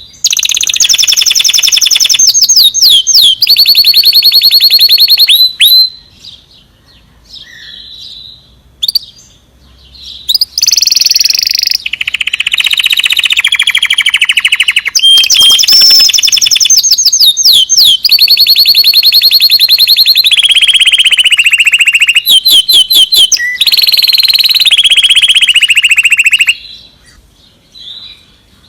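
Recorded songbird song played for bird training: long stretches of very fast, buzzing, high trills, with quick rising whistled sweeps in between and two short quieter pauses, one a few seconds in and one near the end.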